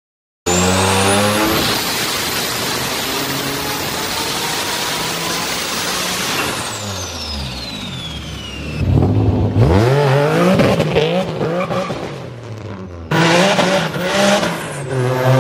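Turbocharged car engine running hard and revving, with a high whistle that falls in pitch midway, then climbing revs. The sound changes abruptly near the end to another hard-revving engine.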